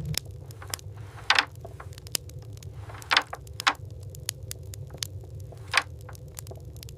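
Wood fire crackling in an iron stove: irregular sharp pops and snaps, a few much louder than the rest, over a steady low hum.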